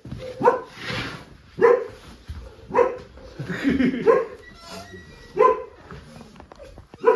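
A dog barking repeatedly, about six short barks a little over a second apart.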